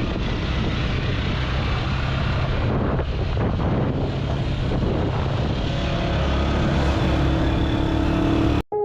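Small motorized tricycle (tuk-tuk) running on the move, a steady engine rumble mixed with road and wind noise on the microphone. The sound cuts off abruptly near the end.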